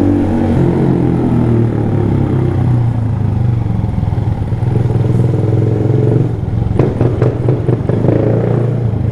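Small Honda motorcycle's 125 cc single-cylinder engine running steadily under way, with a few clattering knocks in the last third.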